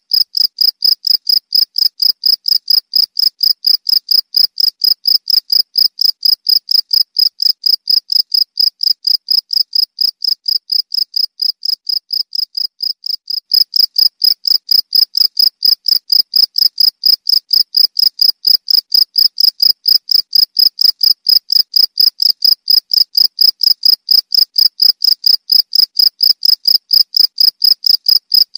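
A cricket (jangkrik) chirping steadily: a high-pitched call repeated in even pulses, about four a second. The call grows slightly fainter, then comes back stronger about halfway through.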